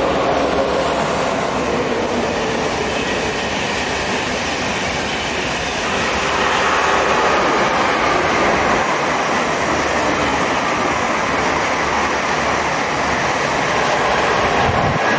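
Electric passenger trains passing at speed on an overhead-wired main line, a steady rush of wheels on rail. From about six seconds in, a second train passes on the nearer track and the noise grows fuller.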